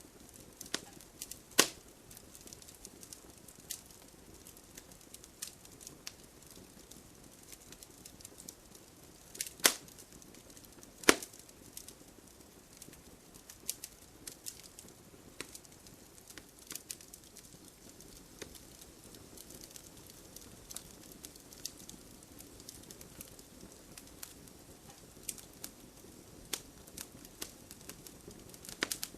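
Wood fire crackling steadily with a dense patter of small snaps over a soft low rush of burning. Three louder sharp pops stand out, about 2, 10 and 11 seconds in.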